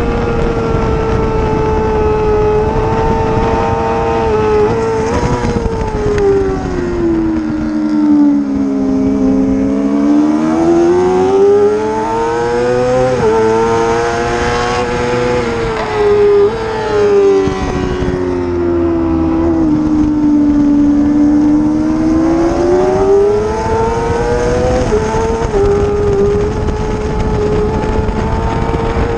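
Racing motorcycle engine under hard use on a circuit. The pitch sinks twice as the bike slows, then climbs again as it accelerates, with a sudden drop in pitch at each gear change, about halfway through and again near the end.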